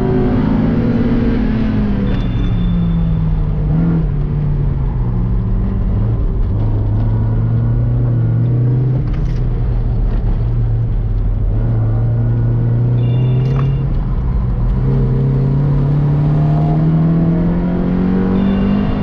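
Mazda MX-5's four-cylinder engine running hard on a circuit lap: the note drops over the first few seconds as the car slows, holds lower through the middle, then climbs steadily again under acceleration over the last several seconds.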